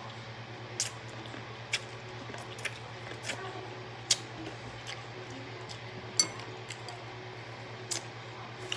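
Close-miked eating of seafood: scattered sharp, wet clicks and smacks, about seven over several seconds, over a steady low electrical hum.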